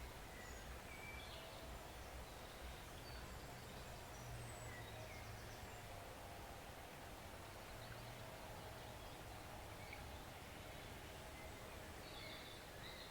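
Faint, steady flow of a small woodland stream, with scattered short, high bird chirps over it and a brief cluster of chirps near the end.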